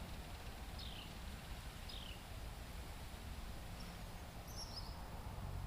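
A bird calling: two short descending chirps about a second apart, then a quick run of higher, shorter notes near the end, over a low steady rumble.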